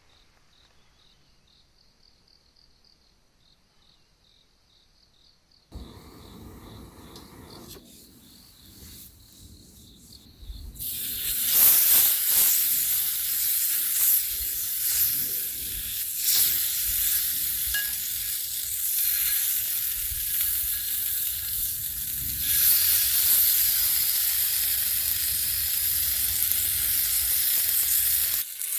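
Meat frying on hot metal: a loud, steady sizzle sets in about a third of the way through and holds. It follows a few seconds of quieter clattering, and before that near silence with a faint steady high trill.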